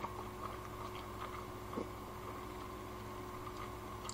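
A person quietly chewing a mouthful of noodles, with a few faint small clicks, over a steady low electrical hum. A sharper click comes near the end.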